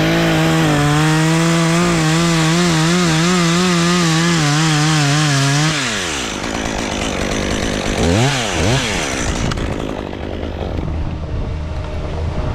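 Chainsaw revving up to full throttle and held for about six seconds, its pitch wavering as it cuts through wood, then dropping back to idle. About eight seconds in there is a brief rev up and down.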